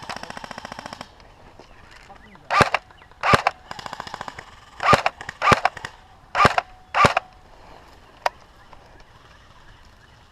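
Airsoft guns firing: a fast full-auto burst that stops about a second in, then six loud single shots in three pairs, with a shorter, fainter burst among them and a last lone click.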